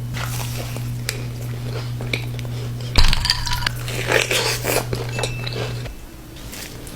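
Close-miked eating of a Crumbl cookie: bites and chewing with sharp clicks and small clinks, loudest about three seconds in. A steady low hum runs underneath and cuts off about six seconds in.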